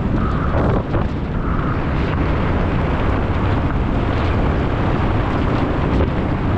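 Loud wind rush over the microphone together with the rumble and rattle of a mountain bike descending at speed over rough ground, with two short higher-pitched sounds in the first two seconds.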